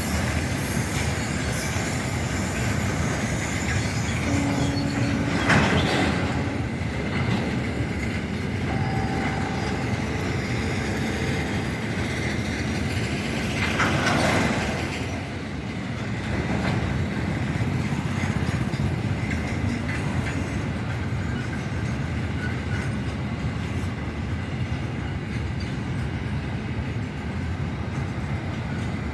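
Indian Railways car-carrier freight train running on the track: a steady rumble with wheel clatter, two louder swells about 6 and 14 seconds in, and a few brief tones in the first dozen seconds.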